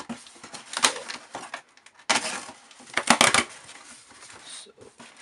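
A shipping package being opened and its contents handled by hand: rustling and crinkling with sharp clicks and snaps, the busiest stretch in the middle.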